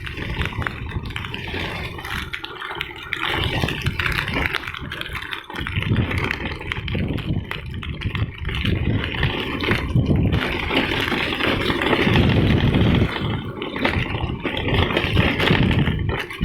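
Vehicle engine running on the move, with road and wind noise; the low rumble swells and dips every second or two.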